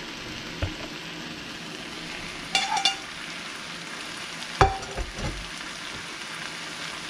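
Diced vegetables and raw fish pieces sizzling in a frying pan, a steady hiss throughout. Over it come a brief clink and then a sharp knock with two softer thumps as the plate and spatula touch the pan.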